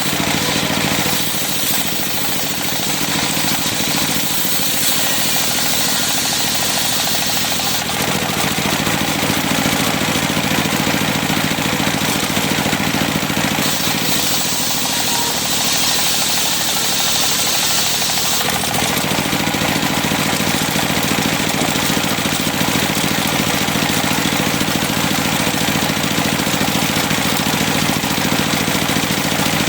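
Engine-driven circular sawmill (serkel) running steadily. Its blade cuts through cempaka timber twice, adding a high hiss from about a second in to about eight seconds, and again from about fourteen to eighteen seconds.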